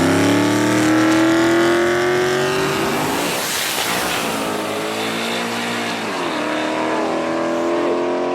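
Modified Ford Mustangs racing at full throttle, engine pitch climbing steadily as they accelerate. A loud rushing pass comes about three seconds in. Around six seconds in the engine note drops, then climbs again as a gear is shifted.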